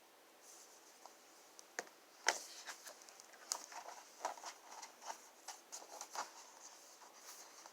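Faint, scattered small clicks and soft rustles, irregularly spaced, over a light hiss.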